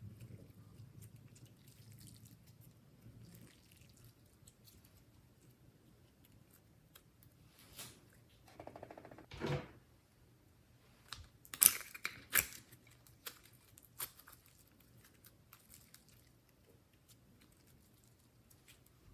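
Slime being handled, mostly quiet with small wet clicks. A longer squelch comes around the middle, followed a few seconds later by a couple of sharp pops.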